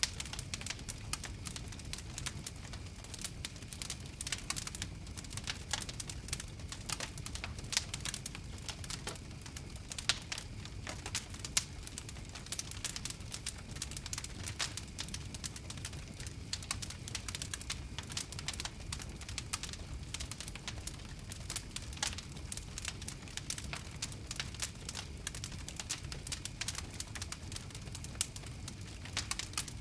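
Wood fire crackling, with frequent sharp irregular pops over a steady low rumble of burning flames.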